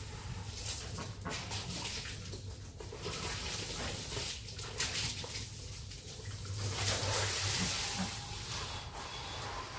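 Running water with a hissing, splashing sound that comes in uneven surges, strongest about two thirds of the way through.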